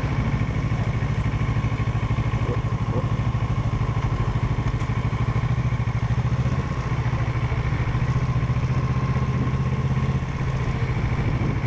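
Parallel-twin motorcycle engine running steadily, a dense unbroken engine pulse with no change in pace.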